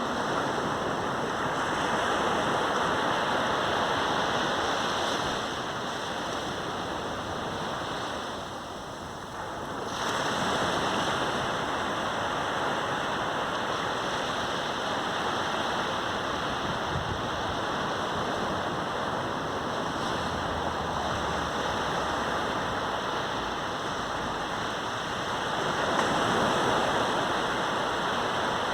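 Sea surf breaking and washing up a beach in a continuous rush. It eases off about a third of the way in, comes back with a fresh wave, and swells again near the end.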